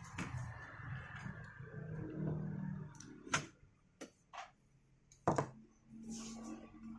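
A few separate sharp clicks and knocks of small hard objects being handled, the loudest about five seconds in, over a low hum during the first three seconds.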